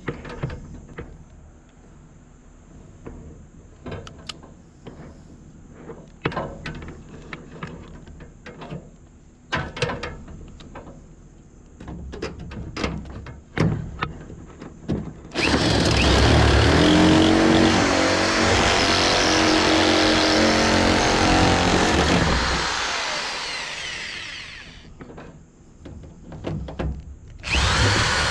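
Scattered handling clicks and knocks, then a power tool cutting metal runs loudly for about seven seconds and fades away. It starts up again just before the end.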